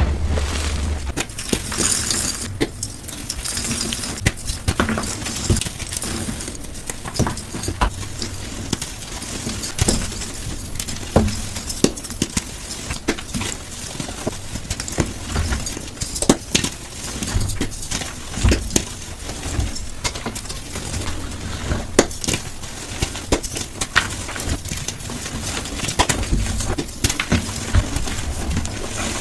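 Gym chalk being crushed, a quick, continuous run of crisp crunches and snaps, played back at double speed.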